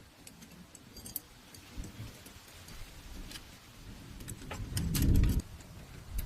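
Scattered metallic clinks and rattles of metal tools or parts being handled, with one louder low rumble lasting about half a second near the end.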